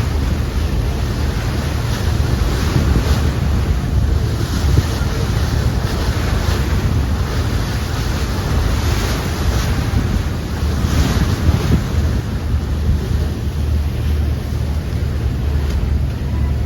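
Wind buffeting the microphone with a steady low rumble over sea water rushing and splashing past a moving boat.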